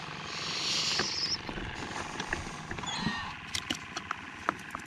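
A short splash in the water about a second long near the start, then scattered light clicks and knocks.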